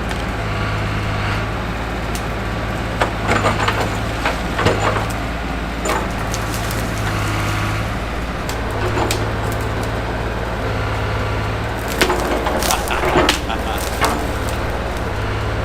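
1968 Atlas excavator's engine running steadily while brush and branches crack and splinter under the machine. The snapping comes in clusters, loudest about three to five seconds in and again around twelve to thirteen seconds.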